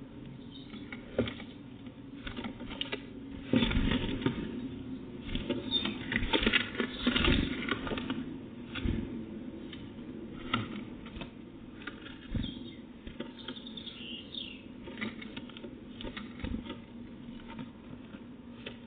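Small birds making irregular taps, scrabbling and wing flutters, busiest a few seconds in, with one brief falling call near the end of the busy stretch, about 14 seconds in.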